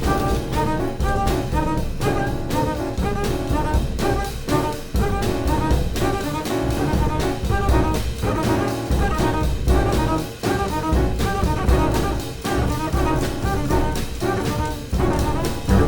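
Jazz piano trio playing: piano notes over double bass and a drum kit with frequent cymbal and drum strokes.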